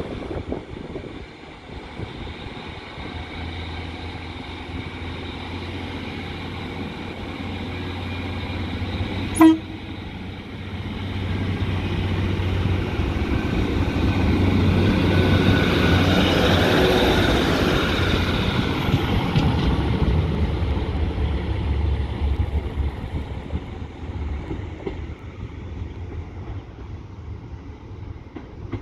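A Class 153 diesel railcar gives one short horn toot about a third of the way in as it approaches. Its engine and wheels then grow loud as it passes close by and fade as it runs away.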